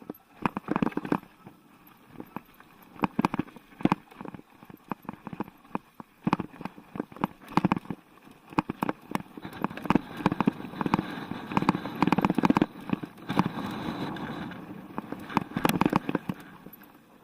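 Mountain bike clattering over rough trail, with irregular knocks and rattles from the bike and its tyres on rocks. The knocks come thicker in the middle, over a steadier rushing noise.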